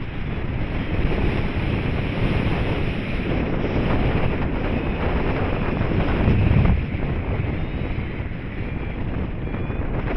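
Rushing air buffeting the microphone in flight under a paraglider, a steady, loud wind roar that swells into a stronger gust about six seconds in.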